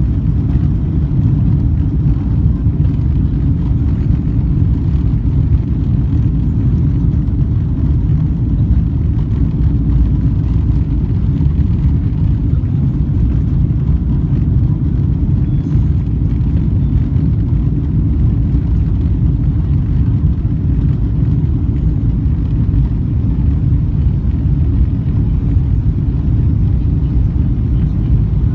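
Steady, loud low rumble inside the cabin of a Boeing 777-200ER: engine and airflow noise heard from a rear window seat.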